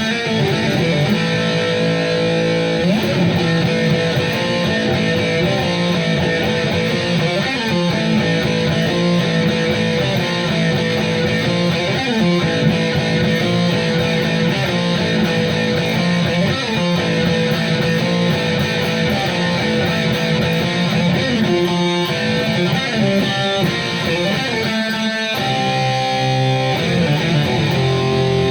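Gibson Les Paul electric guitar playing heavy metal riffs, with sustained chugging notes and a couple of brief pauses between phrases near the end.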